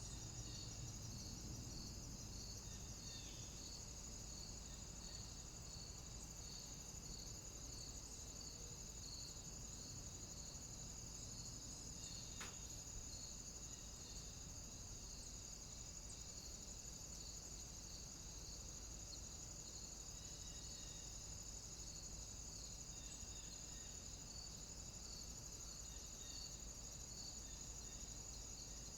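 Steady chorus of cicadas and other insects: a high, even drone with a regularly pulsing chirp just beneath it. A single faint click comes about halfway through.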